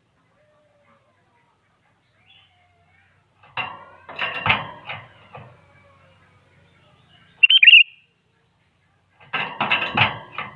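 Sooty-headed bulbul (kutilang) calling. Two bursts of rapid chattering notes come a few seconds in and near the end, with a single short, high, loud call between them.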